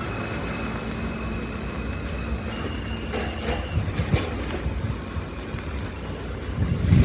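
L line subway train in motion: the electric propulsion whine steps up in pitch, then the wheels knock over the rail joints at an uneven pace, louder toward the end.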